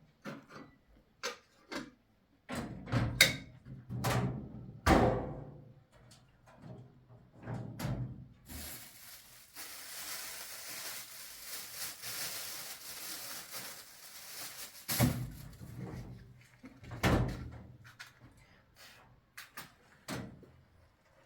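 Irregular knocks and thuds, a few of them loud, with a stretch of steady hiss in the middle lasting about six seconds.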